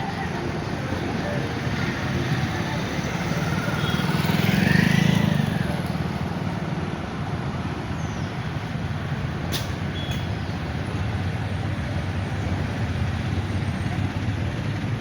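Steady road traffic noise in the rain, with a heavy vehicle passing loudly about five seconds in, its pitch rising and falling as it goes by. Two sharp clicks come near the middle.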